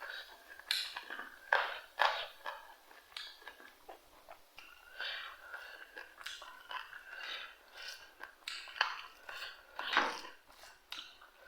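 Close-miked eating: a person chewing food, with irregular crisp crunches and mouth clicks.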